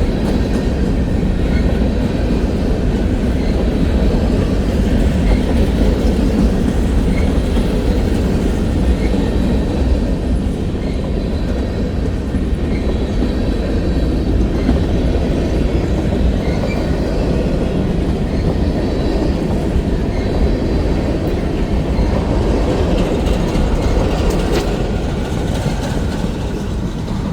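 Freight train cars rolling past close by: a steady loud rumble of wheels on rail with faint clicking from the wheels, and one sharp click near the end.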